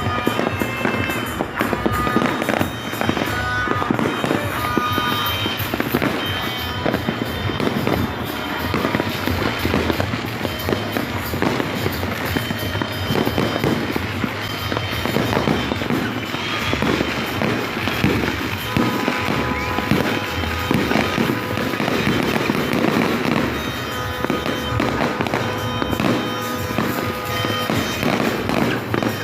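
New Year fireworks going off in a dense, continuous barrage of bangs and crackling, with music playing underneath.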